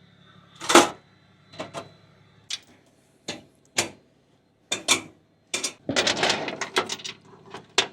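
A string of separate knocks and clicks, the loudest under a second in, then a quicker run of clattering about six seconds in.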